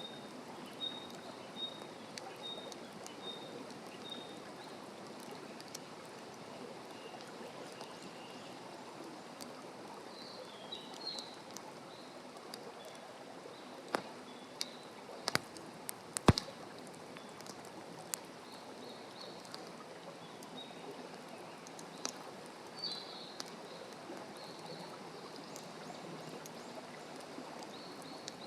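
Open wood fire burning on the ground with a few sharp crackling pops around the middle, the loudest about sixteen seconds in, over a steady rushing background. A small bird repeats short high chirps, about two a second, in the first few seconds and calls briefly a few more times later.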